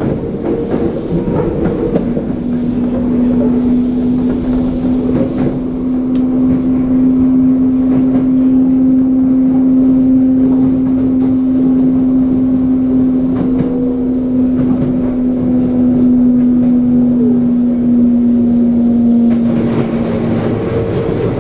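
Interior running sound of a Toei 5300 series subway train at speed: steady rumble of wheels on rail with a steady low hum that comes in about two seconds in and stops shortly before the end.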